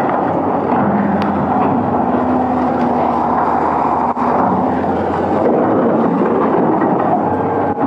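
Heavy machinery running steadily, a diesel engine under a constant loud noise, with a faint held hum in the middle and two brief drops near four seconds in and near the end.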